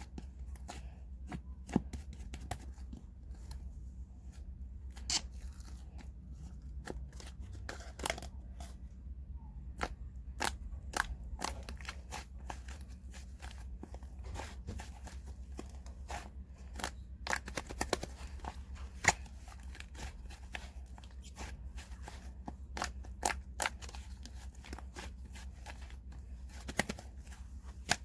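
Slime being pressed, poked and stretched by hand, giving irregular small clicks, pops and crackles, several a second at times, over a faint low hum.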